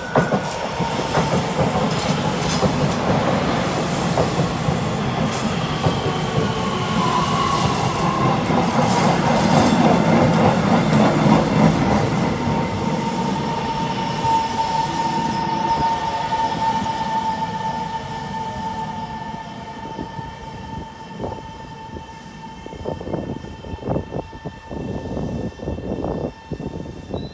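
Taiwan Railways train running along the platform, loudest about ten seconds in, with a steady high wheel squeal over the rumble. It fades in the last few seconds to separate clacks of wheels over rail joints.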